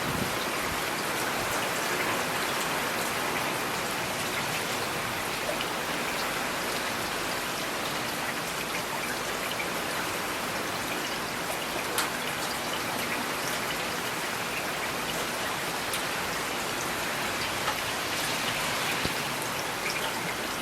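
Steady rain falling on hard surfaces, an even hiss with the odd louder single drop.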